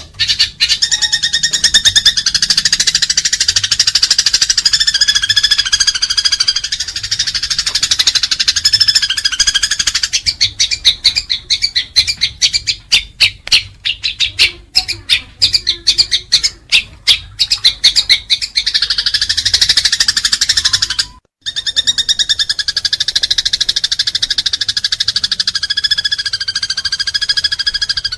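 House sparrows chattering in dense, rapid chirps: the excited 'fighting' chatter of sparrows squabbling. Midway the chatter breaks into trains of separate fast chirps, and the sound cuts out for an instant about three-quarters of the way through before the chatter resumes.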